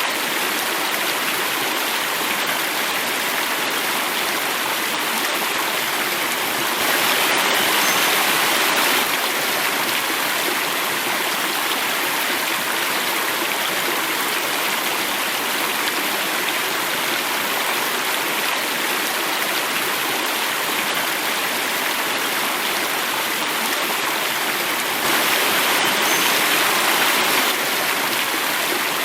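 Steady rush of running water falling over a small cascade, swelling slightly louder twice for a couple of seconds.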